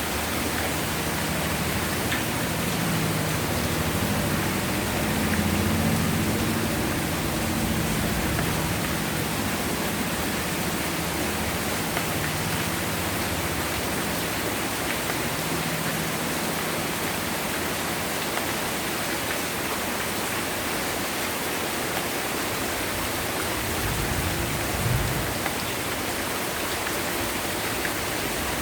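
Heavy rain falling steadily. A low rumble of distant thunder swells and fades over the first half.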